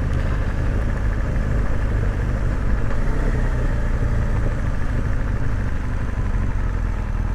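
BMW R1200GS boxer twin with a Remus exhaust end can, running steadily at low revs while the bike is ridden slowly.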